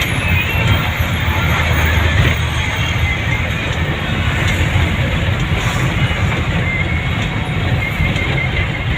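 Steady rumble of a vehicle travelling along a road, engine and road noise with no sudden events.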